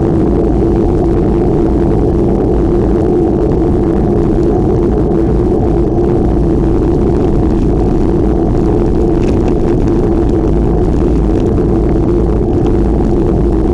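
Wind rushing over the microphone while riding a bicycle, with a steady hum underneath; loud and unbroken throughout.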